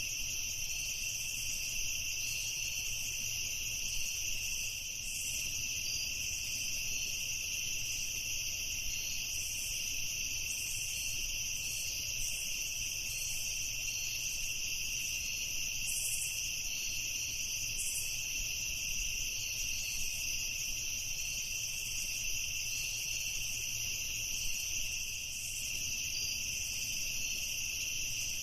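Crickets chirping in a steady, continuous high-pitched trill.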